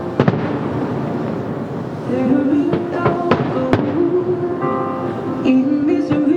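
Fireworks going off in a string of sharp cracks and bangs over music with a held melody, played as the show's soundtrack.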